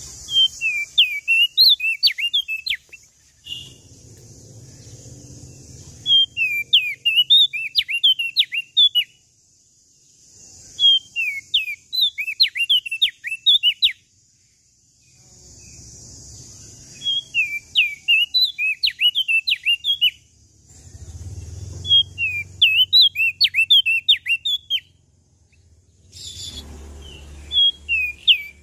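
A prenjak daun (opior jambul) songbird singing loud phrases of quick, sharply sliding whistled notes, each phrase two to three seconds long, repeated six times with short pauses. A steady hiss fills the gaps between phrases.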